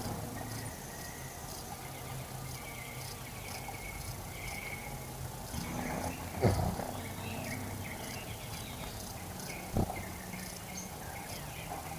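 Outdoor garden ambience: insects chirping with short, repeated high notes, a few held whistled bird calls, and a steady low hum underneath. Two sharp thumps stand out, one about six and a half seconds in and a smaller one near ten seconds.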